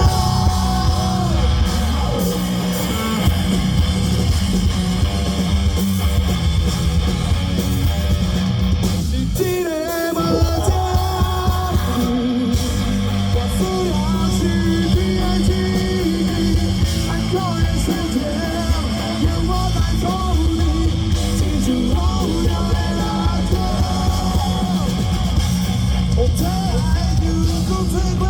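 Rock band playing live and loud: electric guitar, bass and drums with a melodic line over them, easing briefly about ten seconds in.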